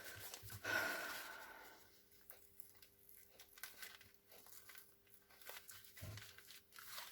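Faint rustling and crinkling of paper being handled, with a longer rustle about a second in and then light scattered taps and rustles.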